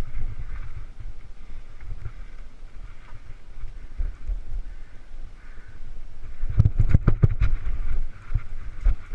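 Mountain bike ridden along a rough dirt trail: a steady low rumble of wind on the microphone, with a burst of knocks and rattles from the bike about two-thirds of the way in.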